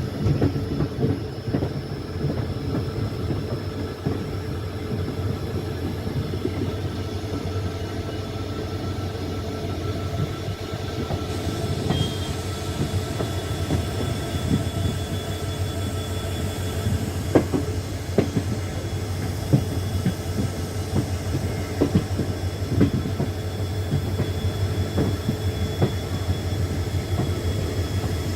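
Passenger train running on the track: a steady rumble of wheels on rails, with a few sharp clicks over rail joints and faint high squealing tones from the wheels.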